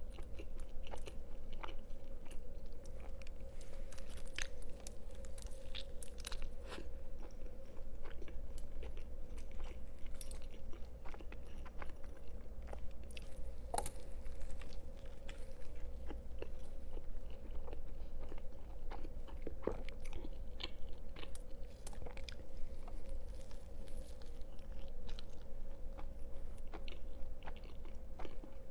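Close-miked eating sounds: a person biting and chewing food, with many short crisp crunches and mouth clicks, over a faint steady hum.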